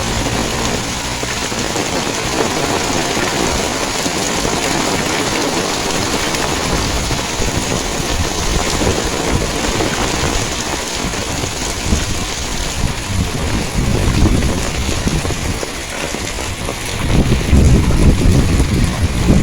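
Heavy rain falling steadily, a dense even hiss. A louder low rumble comes in near the end.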